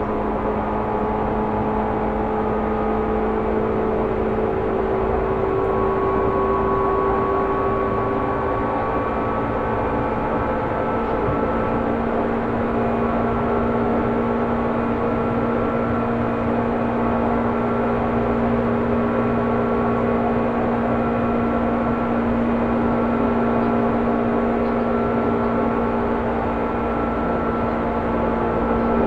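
Onboard running sound of a Seibu New 2000 series electric train under way: a steady motor and gear whine over rail and wheel noise, its pitch drifting slightly.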